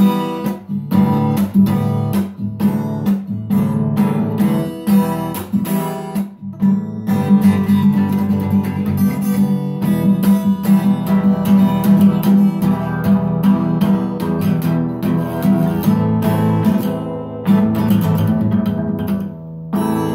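Acoustic guitar played fingerstyle, picking chord patterns: evenly spaced chords about twice a second at first, then denser, busier picking from about seven seconds in, ending near the end.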